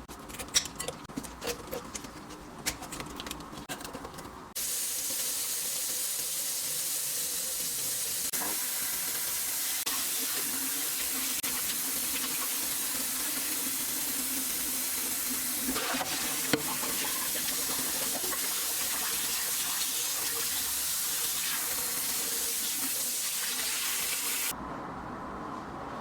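Kitchen tap water running into a sink: a few small handling clicks, then the tap comes on about four and a half seconds in, runs as a steady rushing hiss, and shuts off suddenly about two seconds before the end.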